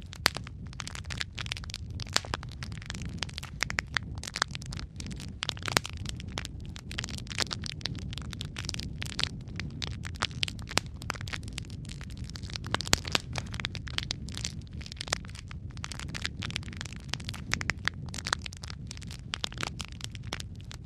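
Wood fire in a fireplace crackling steadily, with dense irregular pops and snaps over a low, even rumble of the flames.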